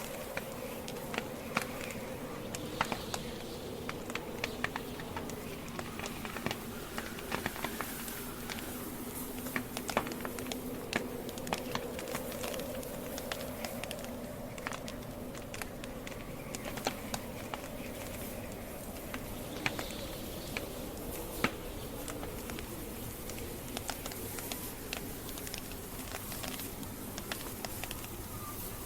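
Wood campfire crackling: irregular pops and snaps from the burning logs, several a second at times, over a steady low rush and a faint low drone.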